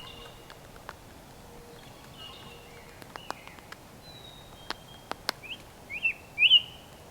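Wild birds calling: scattered short call notes, then three louder, quickly rising notes near the end. A few sharp clicks fall in between.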